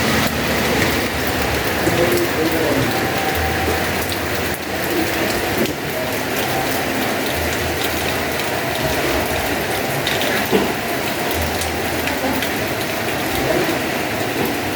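Heavy rain falling steadily, with a low rumble that swells and fades every few seconds.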